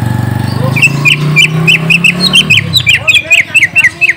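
Cucak ijo (greater green leafbird) singing a rapid run of sharp, high chirps, about four a second, each a quick downward sweep, stopping abruptly. A steady low hum lies underneath and fades out partway through.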